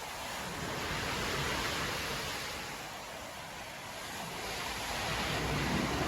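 Storm surf breaking on a beach: a steady rushing wash of waves that swells about a second in, eases, then builds again toward the end.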